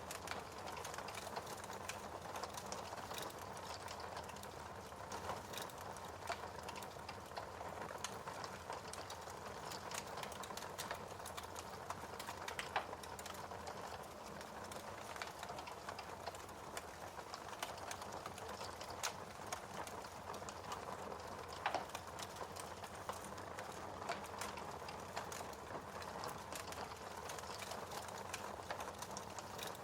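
Fireplace fire crackling steadily: a soft hiss with frequent small pops, and two louder pops, one a little before halfway and one about three-quarters of the way through.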